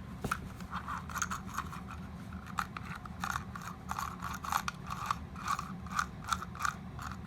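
Irregular clicks and scrapes of small plastic toy-robot parts being handled and worked apart, about two to three a second, over a steady low hum.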